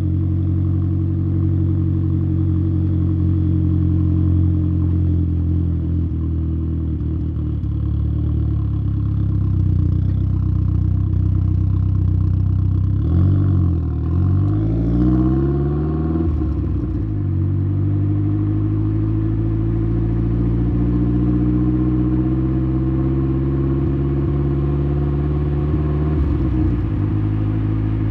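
Exhaust note of a tuned Saab 9-3's turbocharged 2.0-litre B204 four-cylinder, heard at the tailpipe through a 3-inch downpipe and Simons muffler, driving at low revs. The revs drop and pick up again about halfway through, climb slowly over the following stretch, and drop once more near the end, as with gear changes in gentle driving.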